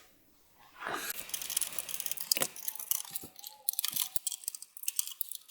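Rapid small clicks, crackles and scraping of hands working a plastic case fan loose from a desktop computer case.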